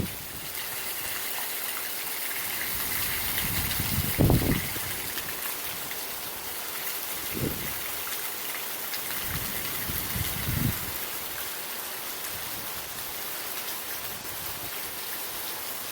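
Steady heavy rain during a thunderstorm, with a few short low rumbles rising out of it, the strongest about four seconds in and weaker ones near 7.5 and 10 seconds.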